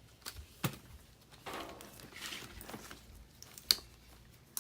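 Metal parts and hand tools clicking and scraping as a bolt is fitted into a furnace blower motor's mounting bracket: a few sharp clicks, the loudest about three and a half seconds in, with a short stretch of scraping between them.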